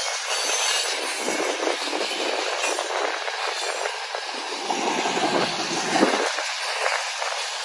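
Covered hopper cars of a freight train rolling past, steel wheels clattering and rumbling on the rails, with a sharper clank about six seconds in.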